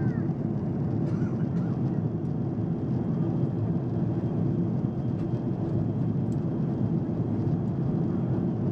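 Steady cabin noise inside a Boeing 777 airliner: an even low rumble of engines and rushing air.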